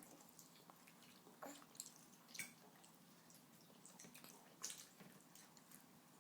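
Near silence: room tone with a few faint, short clicks and taps.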